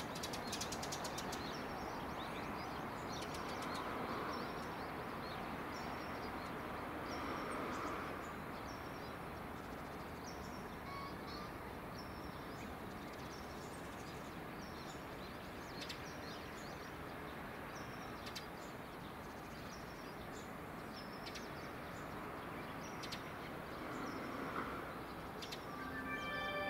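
Steady outdoor background noise with a bird giving short, high, repeated chirps. Near the end, a station's train-approach chime begins: a run of short electronic tones stepping in pitch.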